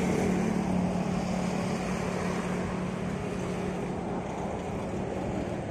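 Wind and road rush while riding a bicycle. A steady low engine hum from a nearby motor vehicle fades away over the first few seconds.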